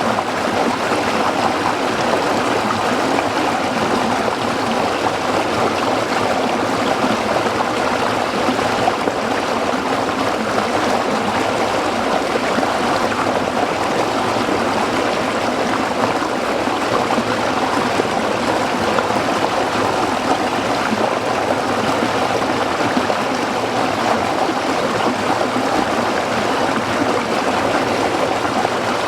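A small stream flowing over rocks: steady babbling, trickling water without let-up.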